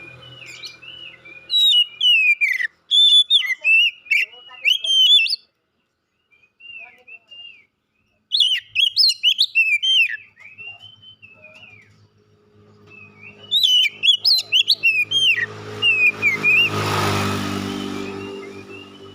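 Oriental magpie-robin (kacer) singing in bursts of loud, rapid whistled and chirping phrases with short pauses, briefly quieter near the middle. From about two-thirds of the way through, a low hum and a swelling rush of noise rise and fade behind the song.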